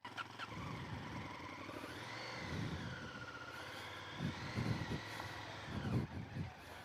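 Motorcycle engine running, its pitch rising and falling slowly, with several low bumps in the second half.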